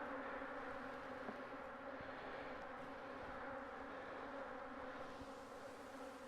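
Honeybees buzzing around an opened hive: a steady, even hum of many wingbeats.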